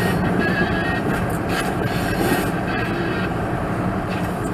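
Steady engine and road noise heard inside a moving truck's cab.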